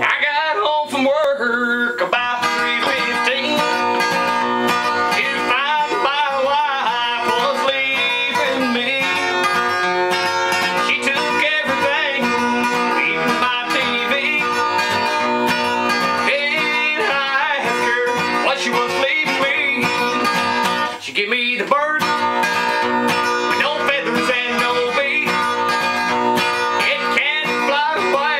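An original song performed on acoustic guitar, plucked and strummed steadily, with a wavering melody line over it.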